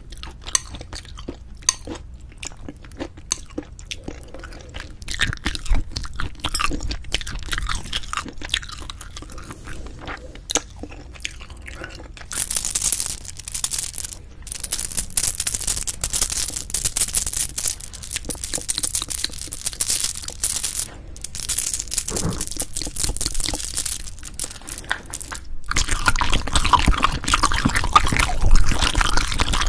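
Close-miked chewing of cheese-topped braised spicy chicken, with wet, crackly mouth noises and bites that grow fuller and louder about twelve seconds in and again near the end.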